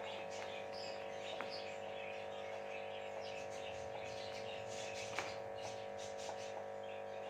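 Small cage birds chirping and twittering in quick short calls over a steady hum, with a couple of sharp clicks.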